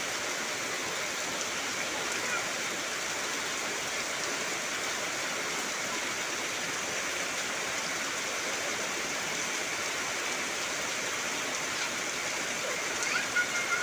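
Heavy rain falling steadily, an even hiss with no letup. A few short chirps come in near the end.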